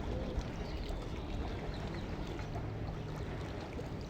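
Arriving lake passenger boat's engine running with a steady low hum, over a wash of water noise.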